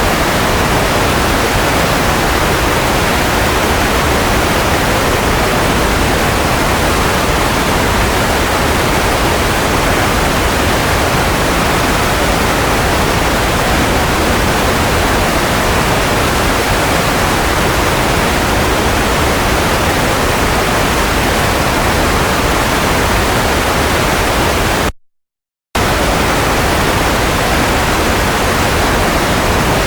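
Steady white noise used as a baby-sleep sound: an even hiss with no tone in it, heavier in the low and middle range than in the treble. It cuts out to silence for under a second about 25 seconds in, then resumes unchanged.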